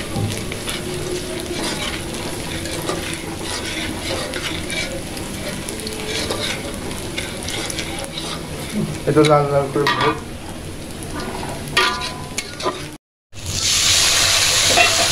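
Sliced onions and dried red chillies frying in hot oil in a wok, sizzling and crackling while a metal spatula stirs and scrapes them. There are brief pitched sounds about nine and twelve seconds in. The sound cuts out for a moment near the end, then the sizzling comes back louder.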